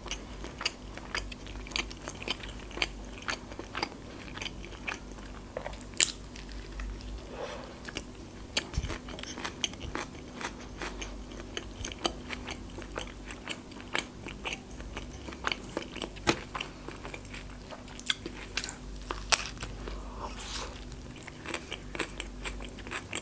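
A person chewing and biting a tortilla wrap close to the microphone: steady mouth sounds with many small crunches, a few sharper ones standing out now and then.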